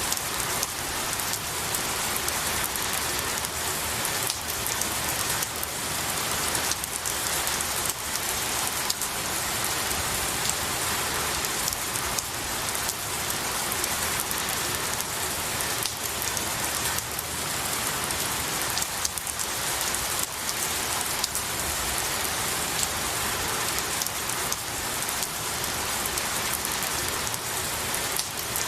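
Steady rain falling on pine needles and trees, an even hiss of rain with many small drop ticks.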